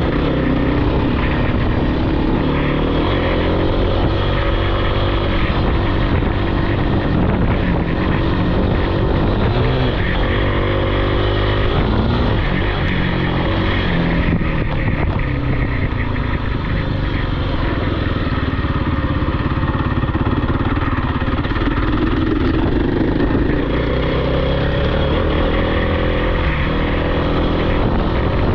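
Off-road vehicle engine running loud and continuous while being ridden, its pitch climbing and dropping again and again as the throttle is opened and closed.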